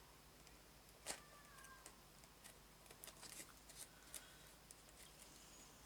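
Faint scissor snips and light handling sounds: one sharp click about a second in, then scattered soft ticks, as a fraying craft material is trimmed.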